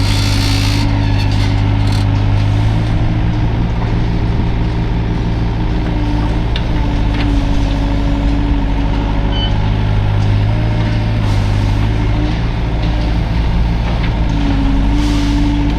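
Hydraulic excavator's diesel engine running steadily under work, with a higher tone that steps up and down in pitch several times. Brief hissing bursts come near the start and again near the end.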